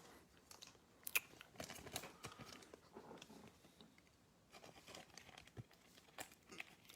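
Faint crinkling of trading-card pack wrappers and light clicks as cards are handled, with one sharper click about a second in.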